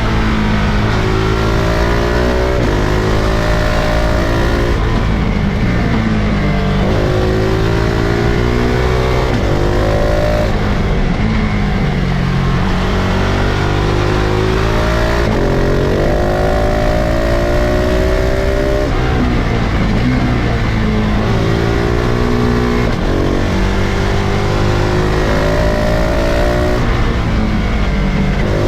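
2023 KTM 690 SMC-R's single-cylinder engine heard from onboard, revving up through the gears again and again. The pitch climbs, drops sharply at each shift or as the throttle closes, then climbs again.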